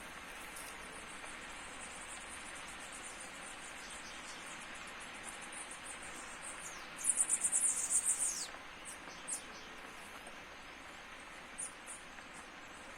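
A steady outdoor hiss with a few faint scattered clicks. About seven seconds in, a high-pitched chirping call of rapid pulses lasts about a second and ends in a falling note.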